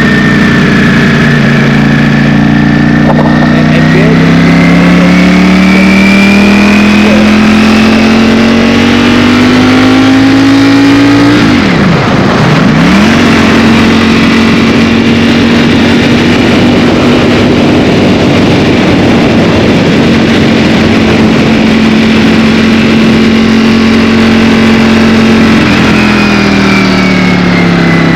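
Ducati Streetfighter V4S's 1103 cc V4 engine pulling under way: its pitch climbs steadily for about ten seconds, drops sharply and comes straight back up around the middle, holds steady for a long stretch, then falls away near the end as it slows.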